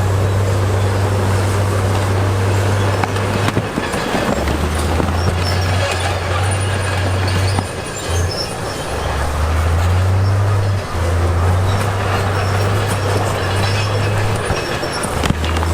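Crawler bulldozer working: a diesel engine drone that drops and rises in pitch several times as the load changes, over squealing and clanking from the steel tracks.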